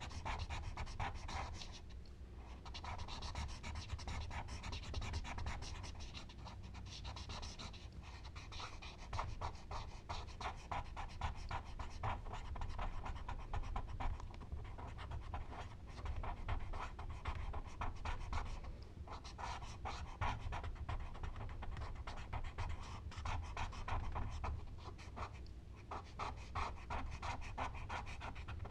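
Charcoal scratching across paper in quick back-and-forth strokes, in runs of several seconds with brief pauses between them.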